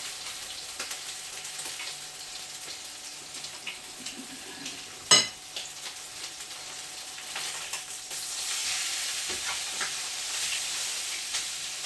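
Chicken pieces sizzling as they fry in a pan, the sizzle growing louder about two-thirds of the way through. One sharp clink about halfway through.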